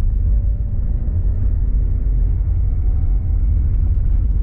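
Car driving on a road, heard from inside the cabin: a steady low rumble of engine and tyres, with a faint whine in the middle.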